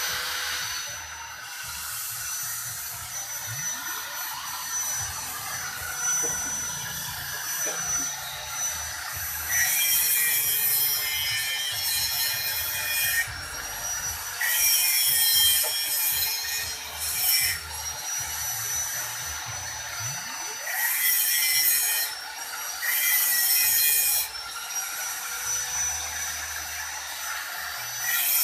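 Abrasive finishing work on a metal motorcycle exhaust: a steady rasping hiss, broken by several louder, shriller bursts of a few seconds each when the abrasive bites into the metal.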